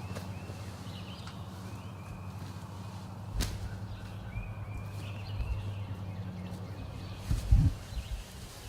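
A single sharp snap of a bow shot at a turkey, about three and a half seconds in, followed by low rumbling and a few heavy thumps near the end.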